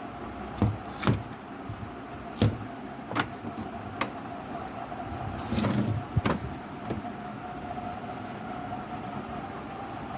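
Car running with the repaired A/C compressor working, a steady whine over the running noise as the system builds good pressure. Several sharp clicks and knocks come in the first six seconds or so.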